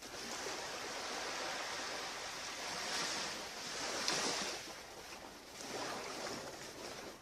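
Ocean surf washing onto a beach, swelling and easing as waves come in.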